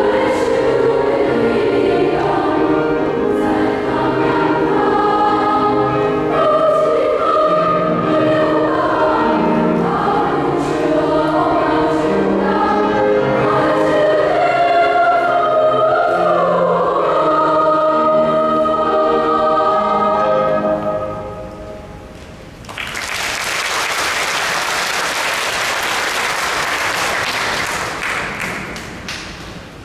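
Choir singing in harmony, the piece ending a little over two-thirds of the way through; audience applause follows and fades out near the end.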